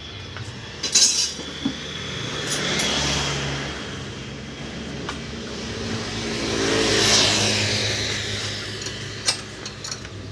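Motor vehicle engine running, building to a peak about seven seconds in and then easing off, with a few sharp clicks.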